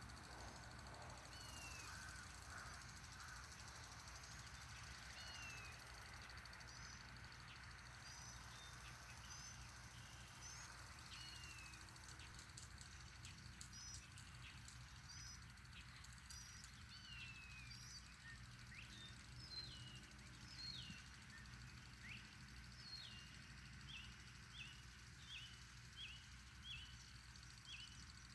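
Faint birdsong: many short sliding chirps scattered through, becoming a run of quick repeated chirps, about two a second, near the end, over a low steady rumble.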